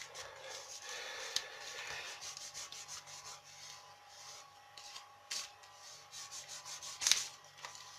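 A sheet of origami paper being folded and its creases pressed down with the fingers: soft rubbing and crinkling, with a few sharp crackles of the paper.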